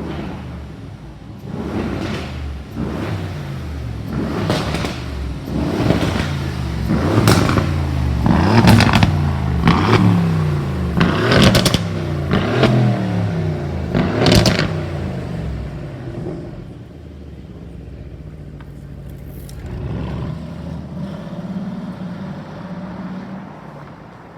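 Aston Martin Vantage engine and exhaust revved hard in a run of quick blips, each rev rising and falling in pitch, loudest through the middle. After that it settles to a quieter, steady running sound with one smaller swell.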